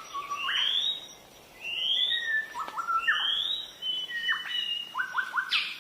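Birds calling: a rising whistled note repeated about once a second, mixed with shorter, lower chirps and a few quick clicks.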